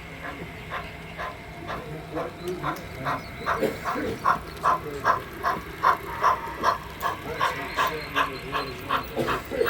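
HO-scale model steam locomotive's sound decoder chuffing steadily through its speaker, about two chuffs a second, growing louder from about three seconds in over a low running hum.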